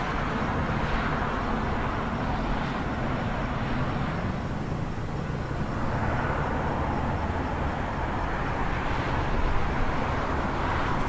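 City traffic ambience: a steady low rumble of road traffic, with vehicles swelling past a few times.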